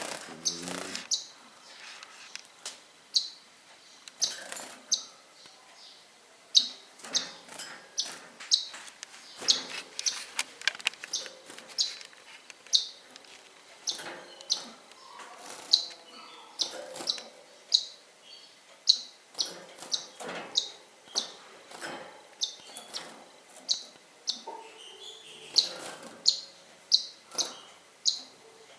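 Pet birds chirping: short, sharp, high chirps repeated at an uneven pace of about one or two a second, with fainter ticks and rustles in between.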